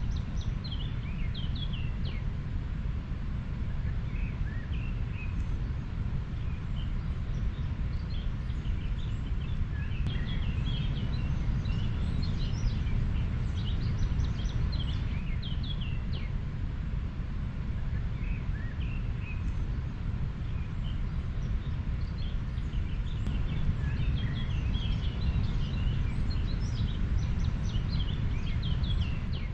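A river flowing with a steady low rush, and small birds chirping over it throughout.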